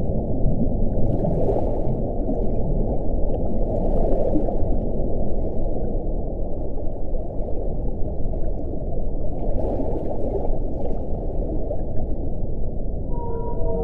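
Strong, low wind rushing steadily, swelling in a few brief gusts. Near the end a howling tone comes in and falls in pitch in steps.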